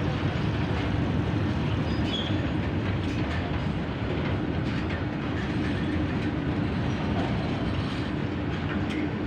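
Train with two locomotives running on the rails: a steady rumble with a constant hum, faint wheel clicks over the track.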